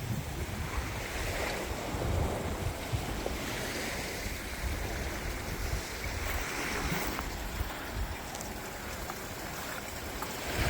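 Small sea waves breaking and washing up a sandy shore, swelling every few seconds, with wind buffeting the microphone.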